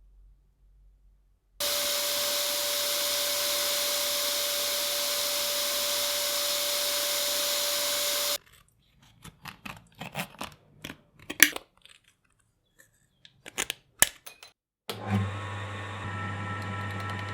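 A loud, steady rush of air with a faint steady tone runs for about seven seconds and cuts off suddenly. Scattered sharp clicks and knocks follow, and near the end a small motor starts and runs with a steady hum.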